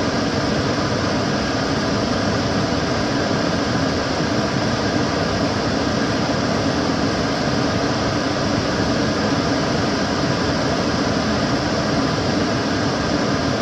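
Kitchen cooker hood extractor fan running steadily: an even rush of air over a low hum, unchanging throughout.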